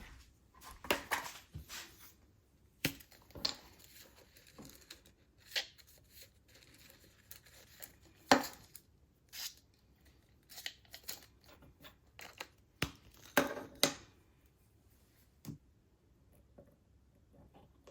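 Close, irregular handling sounds of paper or packaging being torn and crinkled, with short clicks and knocks in between. The loudest is a single sharp snap about eight seconds in.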